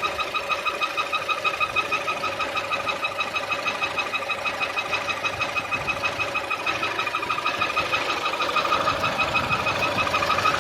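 Chevrolet Aveo 1.2-litre engine idling with a high whistle that pulses rapidly and evenly in time with the engine. The whistle drops away when the throttle is opened and grows louder with the clutch pedal pressed.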